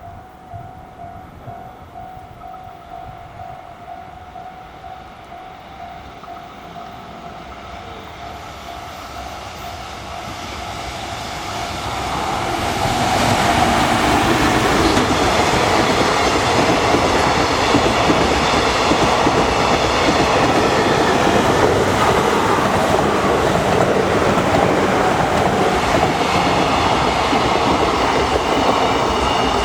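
A Japanese level-crossing warning bell dings rapidly while a train approaches. From about ten seconds in, the train noise swells. From about thirteen seconds in, an EF210-hauled container freight train and a 211-series electric train pass the crossing loudly and steadily, with wheels clattering over the rail joints.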